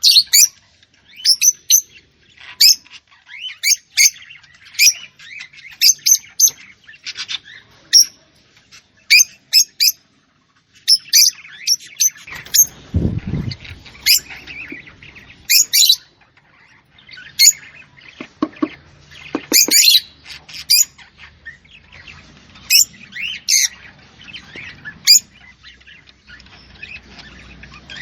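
Small birds chirping: short, high chirps in quick, irregular series, with a brief low thud about thirteen seconds in.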